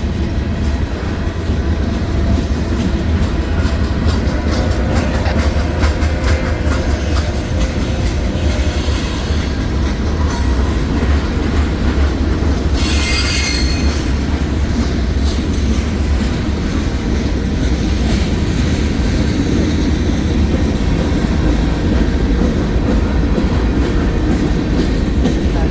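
CSX freight train rolling slowly through a grade crossing: a steady rumble with clicking of wheels over the rail joints. About 13 seconds in, a wheel squeals briefly.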